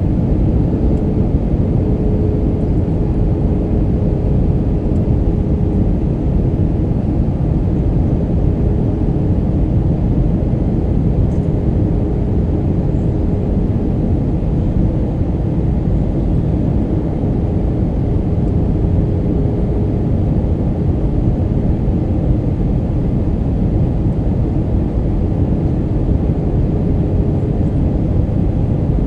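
Steady cabin noise inside an Airbus A319-132 airliner in flight on approach: the low rush of airflow and the IAE V2500 turbofans, with a faint steady hum above it.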